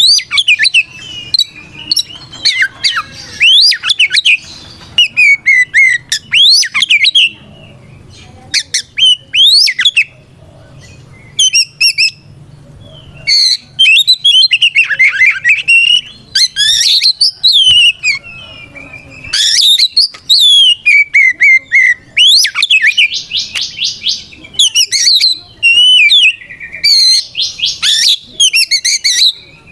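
Oriental magpie-robin singing loudly in full-voiced fighting song, calling out a rival. Quick phrases of falling whistles, harsh rasping notes and rapid trills come one after another with short pauses between them.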